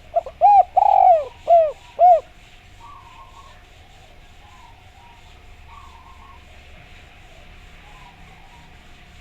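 Spotted dove (derkuku) cooing: one phrase of about five arched notes, over within the first two seconds or so. Afterwards only a faint steady tone and soft, scattered chirping remain.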